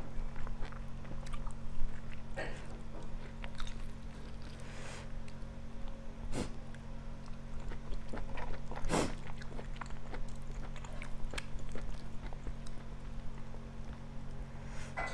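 A person chewing and biting cooked pork leg meat eaten with the fingers, with a few sharper clicks among the chewing. A steady low hum runs underneath.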